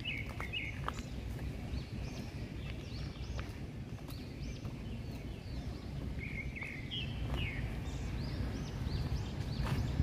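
Small birds chirping, short high calls repeated on and off, over a steady low rumble, with light footsteps on a stone path.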